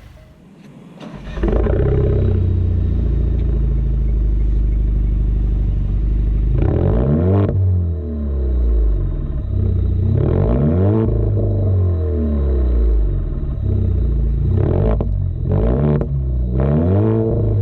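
Alfa Romeo Giulia with a MADNESS Monza performance exhaust starting up about a second in, then idling and being revved several times in short blips, each rising and falling in pitch.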